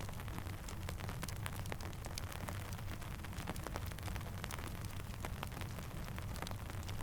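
Steady rain falling, mixed with a crackling campfire: many small, sharp, irregular pops over an even hiss and a low rumble.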